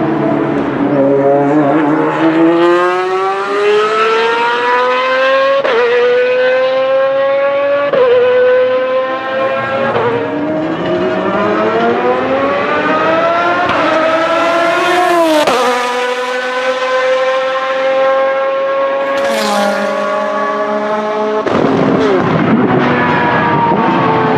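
V12 engine of a Lamborghini Murciélago R-SV GT1 race car accelerating hard through the gears. Its pitch climbs and drops back at each of several upshifts, and about 15 seconds in the car passes close by with a sharp fall in pitch, then holds a steady high note.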